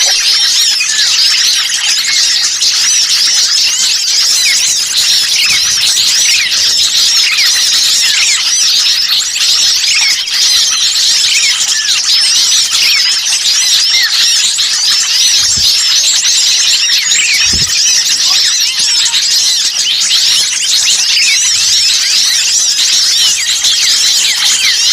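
A dense, noisy chorus of many small songbirds chattering and calling at once, rapid overlapping high chirps and trills with no pause, a bird-lure recording of excited small birds meant to draw wild birds in.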